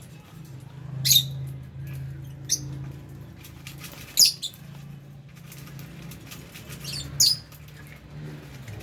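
Small parrots (lovebirds and budgerigars) giving short, sharp, high-pitched chirps, about five in all, spread across several seconds over a low steady hum.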